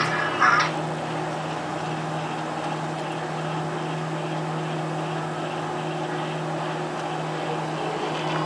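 Microwave oven running with a steady low hum while a cell phone burns inside it; a short, louder sound comes just after the start.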